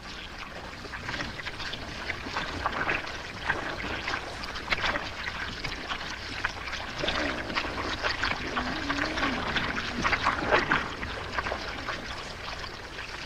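Hippos jostling in shallow mud and water: continual wet sloshing, squelching and splashing, with a faint low animal call near the middle.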